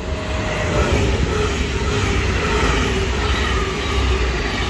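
Two coupled DSB IC3 (MF) diesel multiple units passing close by along the platform: a loud, steady rumble of wheels and engines. A humming tone drops in pitch during the first second as the train goes by, then holds steady.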